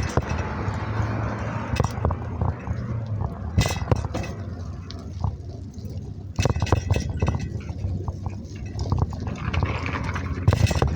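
A bike being ridden: a steady low rumble with irregular clicks and rattles, which thicken about six and a half seconds in.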